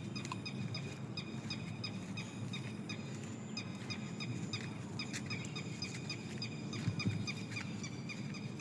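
Many small birds chirping, short high calls repeating throughout, over steady low background noise.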